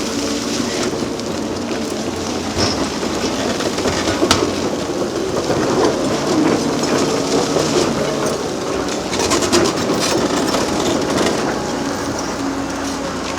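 Hydraulic demolition excavator working: the diesel engine runs steadily under load, with scattered knocks and clatter of breaking concrete and metal, one sharp crack about four seconds in and a burst of clatter around nine to ten seconds in.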